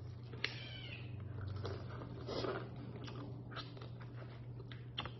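Close-up eating sounds: quiet chewing and mouth sounds of people eating boiled lobster meat with their fingers, with a few sharp little clicks from picking at the shell. A steady low hum runs underneath.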